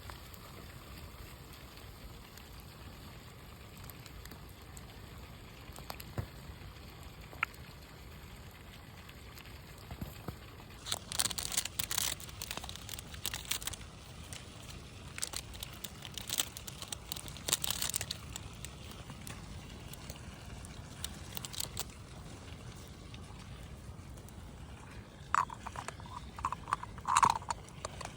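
Intermittent crunching and rustling in clusters of sharp clicks, heaviest in the middle of the stretch, with a few short higher-pitched squeaks near the end.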